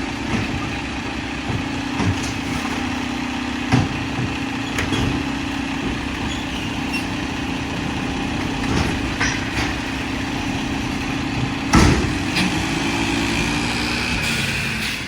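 Mack LR garbage truck with a McNeilus automated side-loader body running steadily, with a few sharp knocks, the loudest about twelve seconds in.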